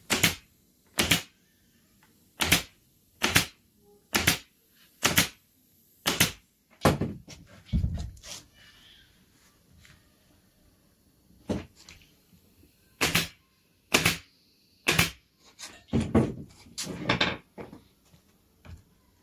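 A series of sharp knocks, about one a second at first, then pausing and resuming irregularly.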